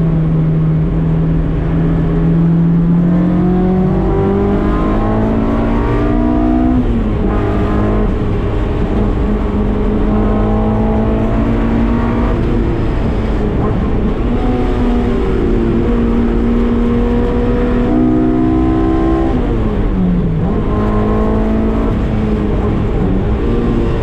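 K24-swapped Mazda MX-5 race car's Honda four-cylinder engine pulling hard, its pitch climbing and dropping back several times as it changes gear, with a brief dip and climb near the end.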